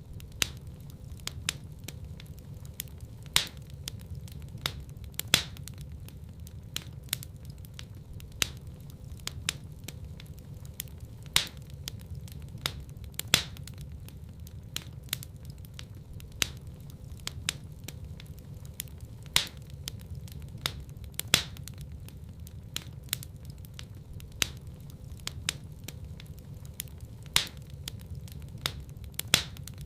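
Wood fire burning in a fireplace: a steady low rumble of flames with sharp, irregular crackles and pops, a few of them much louder.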